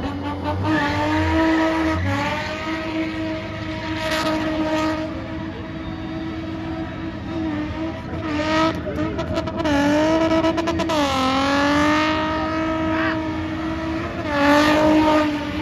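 Car engine held at high revs while the car spins its rear wheels in place, the tyres smoking. The engine note holds steady, dips and swings back up about eight and eleven seconds in, and rises again near the end.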